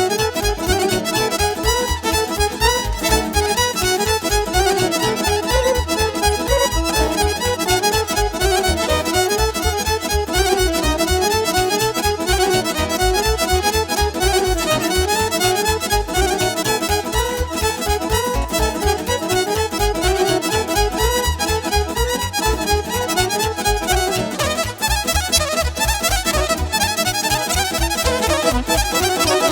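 Instrumental Romanian party music played live: a fiddle carrying a fast melody over accordion and a steady, quick bass beat.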